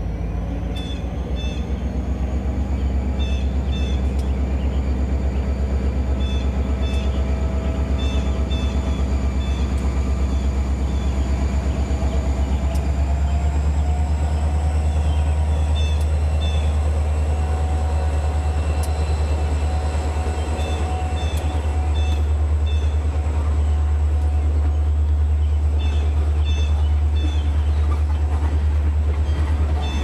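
Diesel freight train rolling past, with a steady low engine drone that rises slightly in pitch partway through. Car wheels make repeated pairs of clicks as they cross rail joints.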